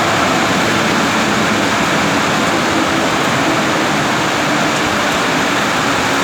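Heavy rain falling: a steady, even hiss with no let-up.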